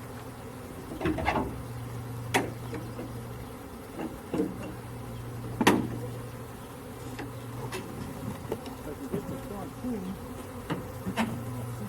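A swarm of honeybees buzzing, a steady hum with single bees droning past, broken by a few sharp knocks, the loudest about halfway through.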